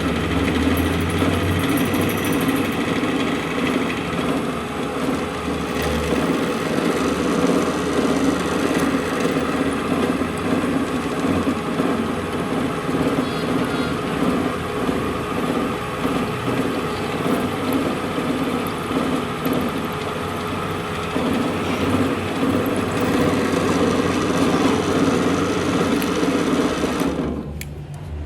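A workshop machine running steadily with a mechanical hum, cutting off about a second before the end.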